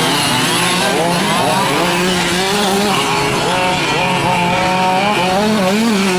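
Several 5th-scale gas RC trucks racing, their small two-stroke engines buzzing and revving up and down at once, pitches rising and falling independently as they throttle through the course.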